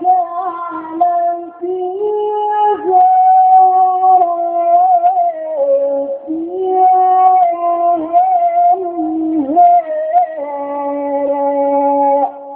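A man chanting the Quran in melodic Egyptian recitation, with long held notes and ornamented slides between pitches. The phrase cuts off near the end, leaving a fainter held tone.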